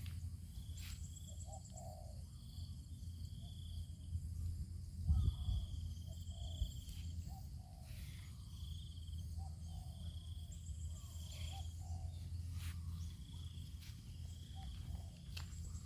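Rural outdoor ambience: repeated short high-pitched calls of birds or insects, a few lower chirps and clicks over a steady low rumble, with one louder thump about five seconds in.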